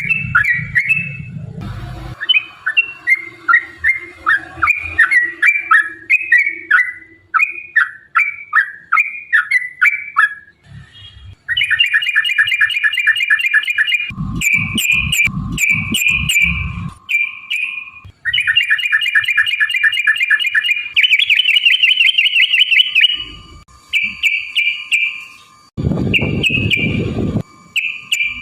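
Yellow-vented bulbul (trucukan) calling in long, rapid bubbling chatters of notes, in fast repeated phrases with short pauses: the excited 'ropel' song used as a lure to provoke other bulbuls. Low rumbling noise comes in twice, in the middle and near the end.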